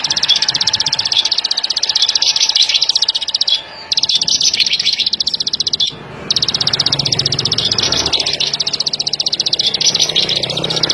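Ciblek sawah (plain prinia) singing a long, very fast trill of clicking notes, broken by two short pauses about four and six seconds in. A faint low hum sits underneath in the second half.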